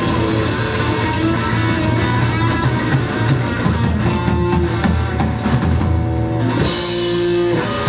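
Live rock band playing with drum kit and electric guitar, ending on a cymbal crash and a held chord near the end.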